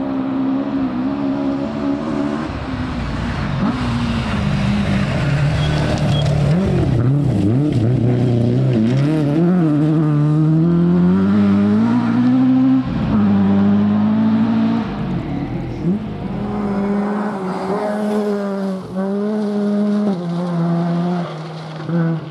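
Rally car's engine at high revs on a stage, its pitch climbing and dropping again and again with gear changes and lifts off the throttle. In the last few seconds it holds a steadier note, broken by a few brief dips.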